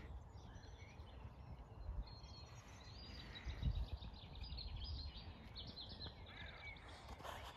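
Birds calling and singing in short chirps, with a quick run of repeated notes a few seconds in, over a low, uneven rumble.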